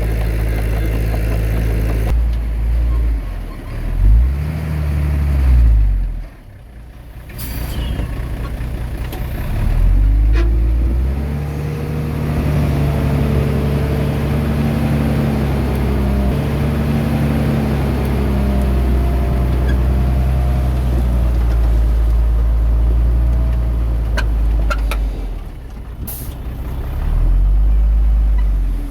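Heavy diesel engine of earthmoving machinery (dump truck or bulldozer) working under load, its pitch rising and falling as it is revved, dipping briefly about six seconds in. A few short, sharp hissing sounds cut in about seven seconds in and near the end.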